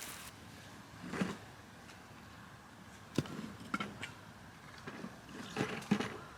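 Scattered short clicks and knocks with soft rustling, the sound of small objects being handled. The sharpest clicks come about three seconds in and again near the end.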